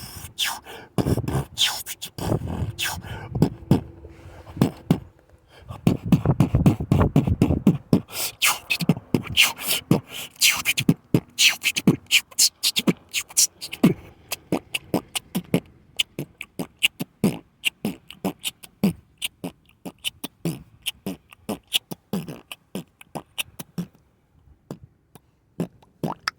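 A fast, uneven run of sharp clicks and pops, with heavier low thumps mixed in a few seconds in.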